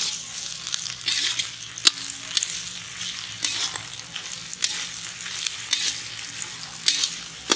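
Mutton pieces and red chilli paste sizzling in hot oil in a black iron kadai, stirred and tossed with a slotted metal spatula that scrapes the pan. The spatula knocks sharply on the iron about two seconds in and again near the end.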